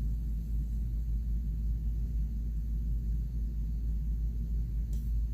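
Steady low hum with no other distinct sounds.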